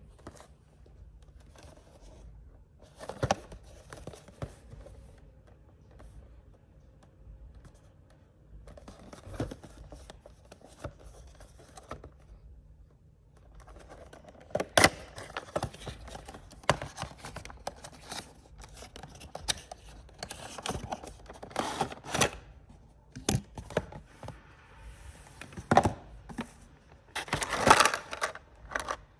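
Cardboard and plastic packaging of a boxed action figure being handled and opened: scattered sharp clicks, scrapes and tearing, busier in the second half.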